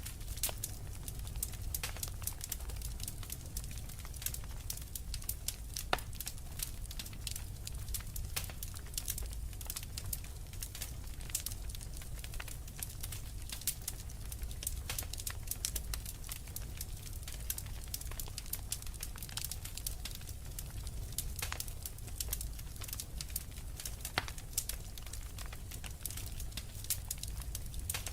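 Wood fire crackling: a dense run of small irregular pops and snaps over a steady low rumble, with one sharper pop about six seconds in.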